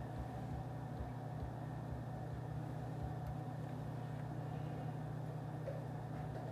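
Steady low hum over a soft, even background hiss: office room ambience.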